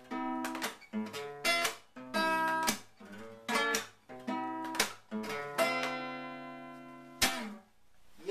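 Acoustic guitar strumming chords in short, choppy strokes with gaps between them. It ends on a chord left to ring for about a second and a half, then one sharp muted stroke stops it.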